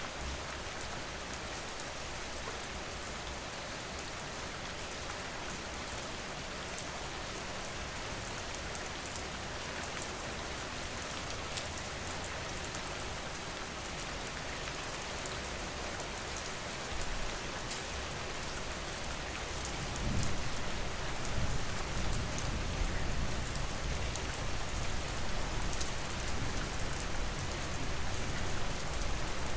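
Steady rain falling, with a fine patter of drops hitting a surface. About twenty seconds in, a low rumble joins it and the sound gets a little louder.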